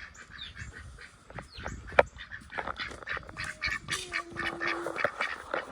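Chickens clucking and squawking, a quick string of short calls, with one longer held call about four seconds in. A sharp click about two seconds in.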